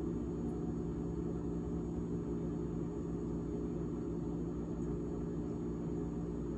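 GE GTH18XCTZRBB refrigerator's fan running with a steady hum of several held tones.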